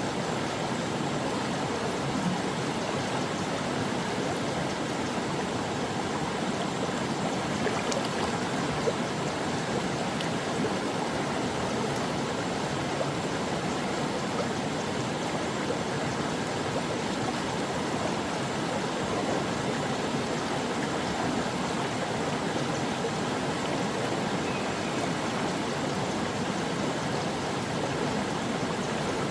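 Stream flowing steadily over rocks, a constant rush of running water with light gurgling and splashing.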